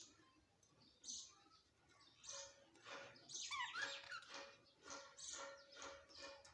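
A parrot's short high chirps and squawks: one at about a second in, then a run of them about two a second, with a quick burst of whistled notes partway through.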